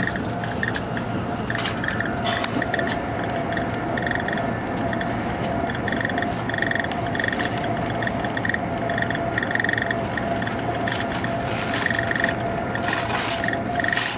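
Running noise inside a German ICE high-speed train at speed: a steady rumble and hiss with a constant whine, broken by irregular high buzzing rattles.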